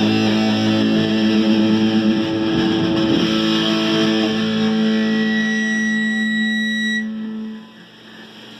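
Distorted electric guitar music holding a sustained chord that rings on, then cuts off about seven seconds in, leaving only a low hum.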